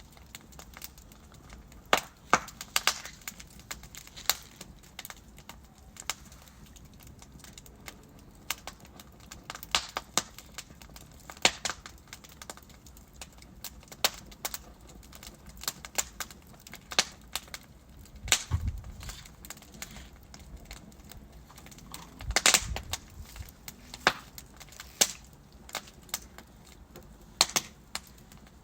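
Wood fire burning in a fireplace, crackling with irregular sharp pops and snaps over a faint steady hiss. Two deeper, fuller pops stand out about two-thirds of the way through.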